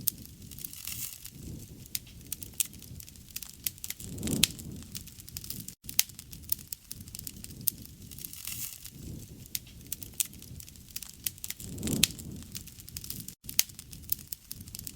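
Wood fire crackling, with frequent sharp pops and a low rumbling swell twice, about four seconds in and again near twelve seconds.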